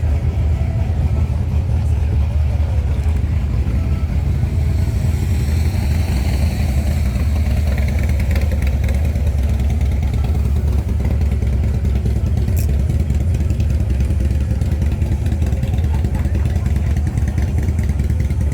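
Steady low rumble of a motor vehicle engine running, with a fainter higher noise that swells and fades about five to eight seconds in.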